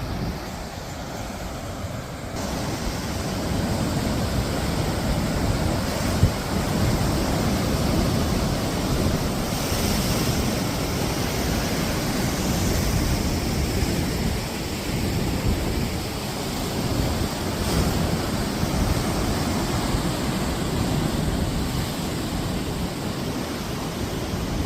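Wind buffeting the microphone: a steady, loud rushing noise that swells and eases, heaviest in the low end.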